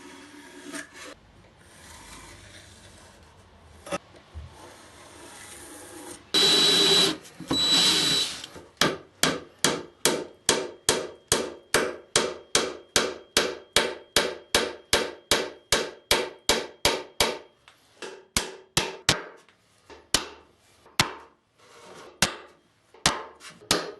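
Two brief bursts of a power tool, then a steady run of hammer blows on wood, about two a second for some eight seconds, thinning to scattered blows near the end.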